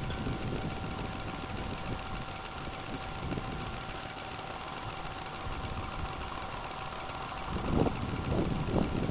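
Small Predator four-stroke engine of a homemade motorbike running steadily, with a constant whine over the engine noise. It gets louder and rougher about eight seconds in.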